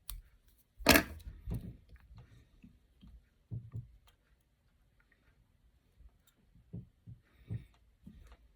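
Handling noises at a fly-tying bench: scattered knocks and clicks of tools and materials being picked up and set down, the loudest about a second in.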